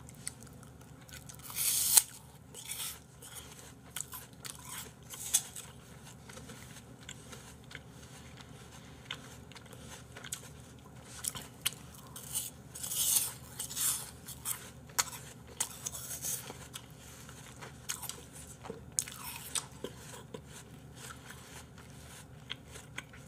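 A person biting into and chewing crisp raw apple slices, a crunchy, wet chewing in irregular bursts. The loudest crunch comes about two seconds in, and another run of loud crunching comes around twelve to fourteen seconds in.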